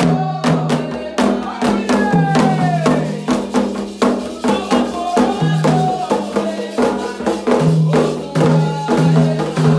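Candomblé atabaque drums and hand percussion playing a fast, driving toque for Ogum, with voices singing the chant over the drumming.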